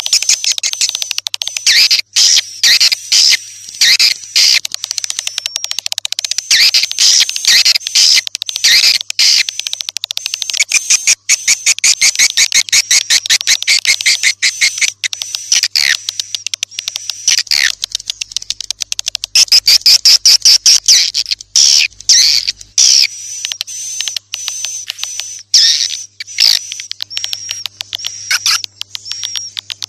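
Swiftlet call track: a dense, continuous chatter of rapid high twittering chirps and clicks from many swiftlets. It is the kind of lure call played to attract swiftlets to a nesting house.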